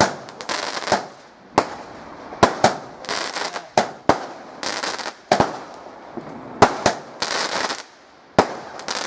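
Fireworks going off in a string of sharp bangs, roughly one a second, each trailing off in a short crackling hiss.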